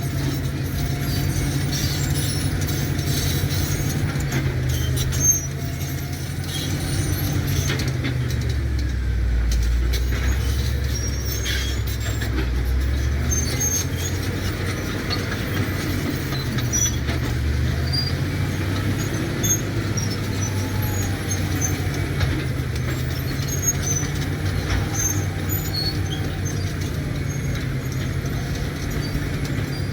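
CAT D7 bulldozer's diesel engine running steadily, with scattered metallic clicks and clanks. The engine note drops and deepens for several seconds in the middle, then rises again.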